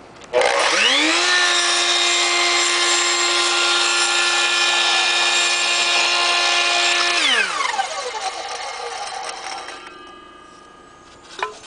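Electric miter saw cutting a styrofoam crown molding at 45 degrees: the motor starts about half a second in with a rising whine, runs steadily at full speed for about seven seconds through the cut, then winds down with a falling whine after it is switched off.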